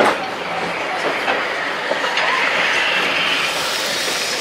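Railway carriages of a passing train rolling close alongside, a steady rushing noise with scattered wheel clicks over the rail joints.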